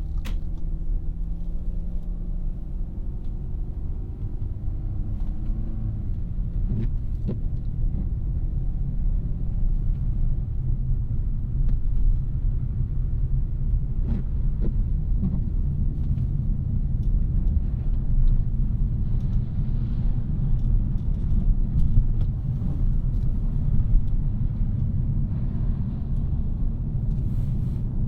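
A 2017 Audi A3's 2.0-litre turbocharged four-cylinder pulling under acceleration, its pitch rising over the first six seconds or so. After that comes a steady low rumble of engine, road and tyre noise while cruising.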